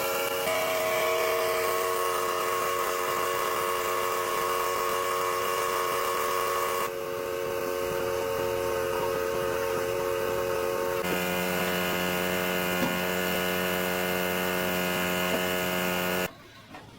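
Steady machine whine from a running electric motor, its pitch changing abruptly three times where the footage is cut, and stopping shortly before the end.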